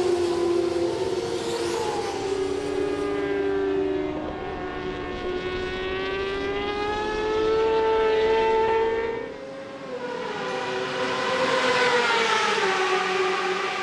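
Superbike engines at high revs, their notes rising and falling slowly as the bikes run on track, often two at once.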